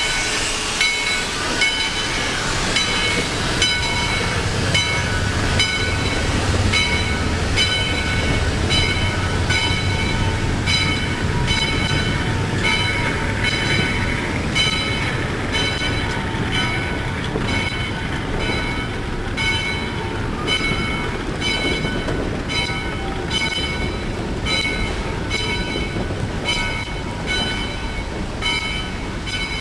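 Narrow-gauge logging railroad train running along the track: a steady low rumble with a regular clack about once a second and a constant high ringing.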